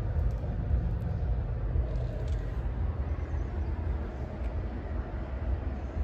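Steady, fluttering low rumble with an even background hiss, with a few faint ticks.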